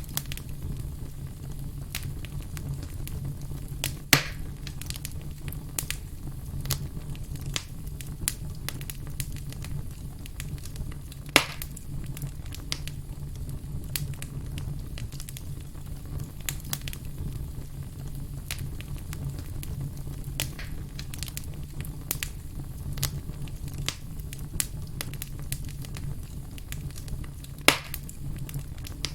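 Wood campfire crackling steadily over a low rumble, with many small sharp crackles and three louder pops.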